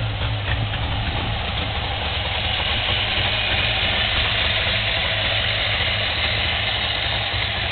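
FSM Syrena 105's three-cylinder two-stroke engine idling steadily.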